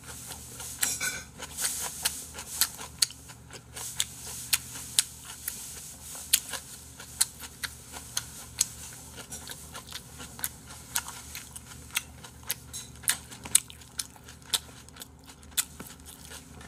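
Close-miked eating sounds: chewing a bite of boiled pork (bossam) wrapped in white kimchi, with irregular sharp mouth clicks and crunches.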